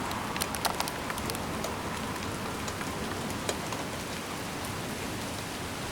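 Steady rain falling during a thunderstorm, with a quick run of sharp drip taps in the first second and a half.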